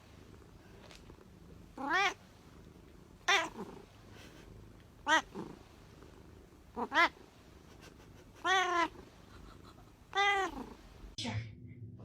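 Domestic cat meowing repeatedly: about seven short meows that rise and fall in pitch, one every second or two, two of them in quick succession about seven seconds in.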